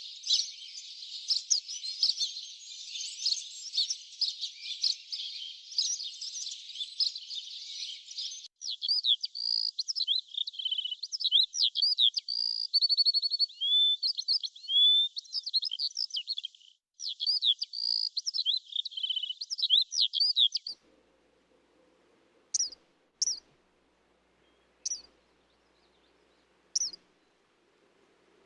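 Birds chirping and twittering densely, then sharper, separate whistled calls. The sound changes abruptly at about 8 s, 17 s and 21 s; after that only a few short isolated calls sound over a faint low hum.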